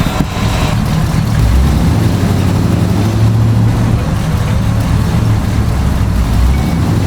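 Car engine running steadily, a low hum that swells slightly in places.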